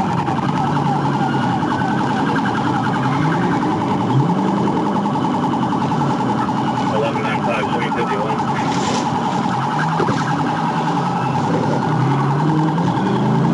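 Police car siren sounding continuously, a fast-pulsing tone that holds a steady pitch.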